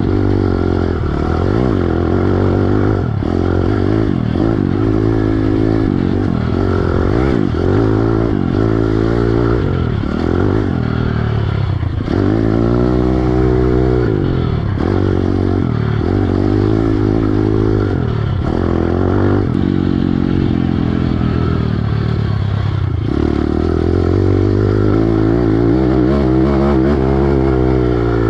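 Pit bike with a Piranha 140 four-stroke single engine, ridden hard on a motocross track: the engine revs up and drops back over and over as the throttle is worked on and off.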